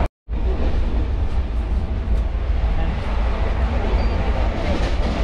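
Steady low rumble and rattle of a running passenger train, heard from inside an air-conditioned sleeper coach, with faint scattered clicks.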